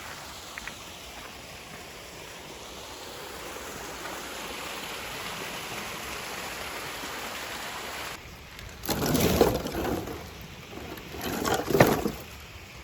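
Steady rushing of a flowing river. Near the end it is broken by two loud, rough bursts of noise, each about a second long.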